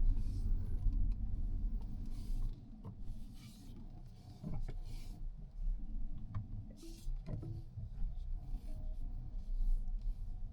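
Low rumble of a Mazda 6e electric sedan on the move, with scattered light clicks and short bursts of hiss. The rumble drops away for about two seconds midway, then returns.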